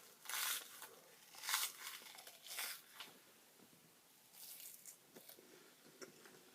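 Wasabi-flavoured roasted seaweed snack being broken and crunched, a few short, faint, crisp crackles and crinkles.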